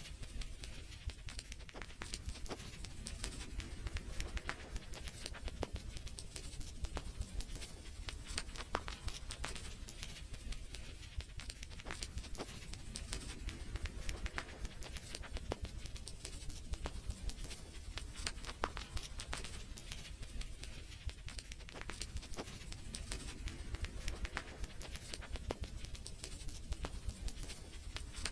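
Fire crackling in a fireplace: a dense, irregular stream of sharp pops and snaps over a steady low rumble of the flames.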